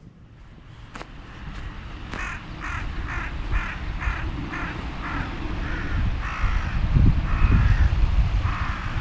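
A crow cawing in a long run of short calls, about two a second, over gusts of wind rumbling on the microphone.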